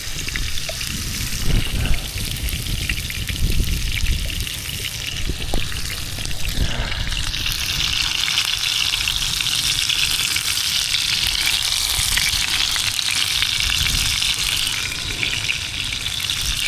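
Filet mignon sizzling as it sears in a hot frying pan, the sizzle growing louder about seven seconds in, over a low rumble.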